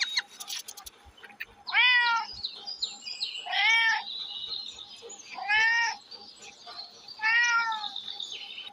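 Kitten meowing: four high calls, each about half a second to a second long, rising and then falling in pitch, roughly every two seconds.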